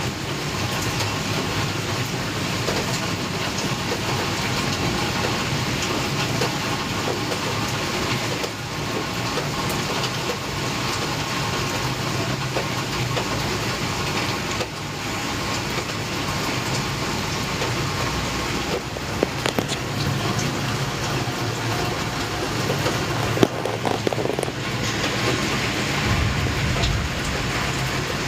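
Heavy rain falling steadily in a thunderstorm, an even wash of noise, with a few sharp ticks in the second half.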